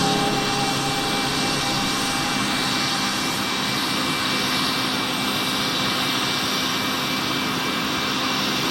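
Military helicopter's turbine engines running steadily: an even rush with a thin, steady high whine.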